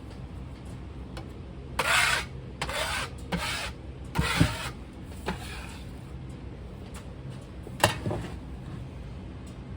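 Casting sand being scooped and packed into a mold flask: a series of short scraping, rubbing strokes, most of them about 2 to 5 seconds in and one more near 8 seconds, over a steady low hum.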